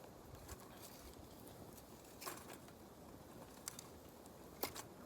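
Wood campfire crackling faintly: a few scattered sharp pops and snaps, the clearest about two and a half seconds in and near the end, over a soft steady hiss.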